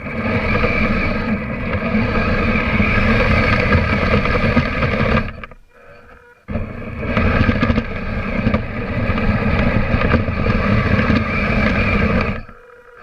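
Kyosho Blizzard RC snow vehicle's electric motor and tracked drivetrain running with a steady whine, heard from a camera mounted on the vehicle. It stops about five and a half seconds in, starts again a second later, and stops once more near the end.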